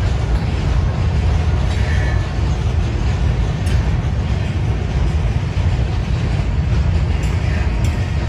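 Freight train cars rolling across a steel girder bridge: a steady low rumble with a few brief faint squeals.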